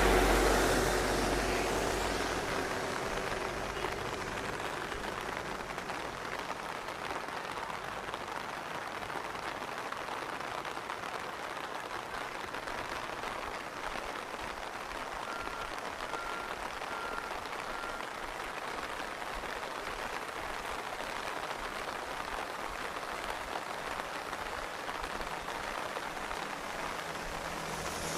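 Steady rain falling. A motor vehicle passes right at the start, its engine sound fading away over the first few seconds.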